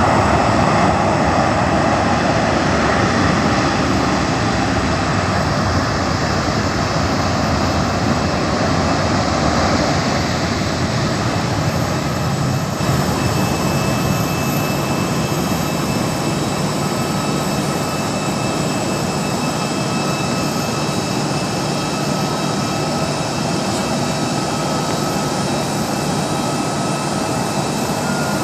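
Jet airliner landing: a steady rushing roar of engine and airflow noise, a little louder in the first ten seconds, with faint high whines coming through in the later part.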